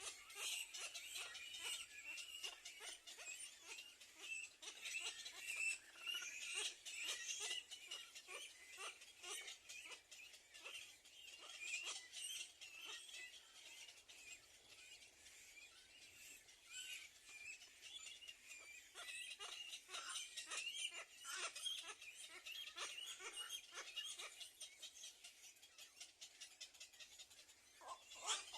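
Small birds chirping: a long, faint run of short, rapid calls.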